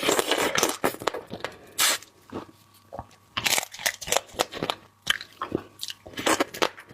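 Close-miked eating of seafood: a mouth biting and chewing, with irregular crisp crunches that come in clusters, loudest at the start, about three and a half seconds in and near the end.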